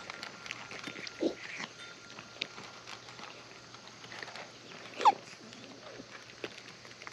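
Cats eating wet food: many small scattered clicks of chewing and licking, with a short animal call a little over a second in and a louder, sharper one falling in pitch about five seconds in.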